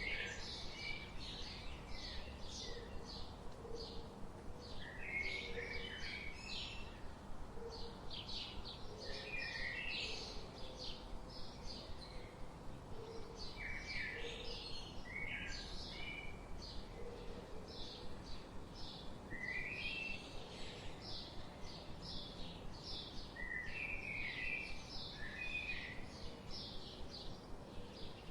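Forest birdsong: many birds chirping in quick, short, high notes throughout, over a steady faint background hiss.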